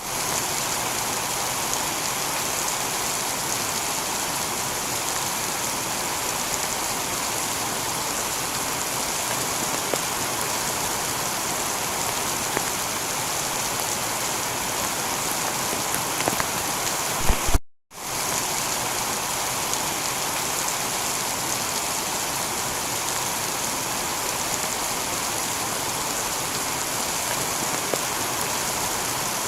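Heavy rain falling on a tiled roof, an even steady patter. About 18 seconds in it cuts out for a moment and fades back in.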